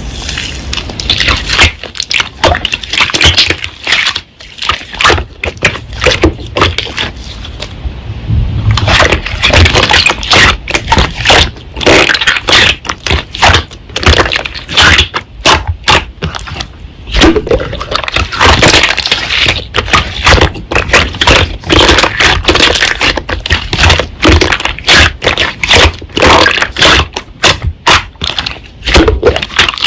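Slime being kneaded, pressed and stretched by hand, making dense crackling and popping clicks.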